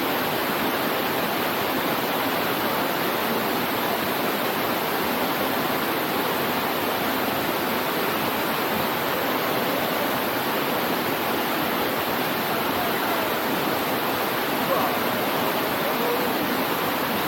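Water rushing down a waterfall cascade: a steady, even rush of water.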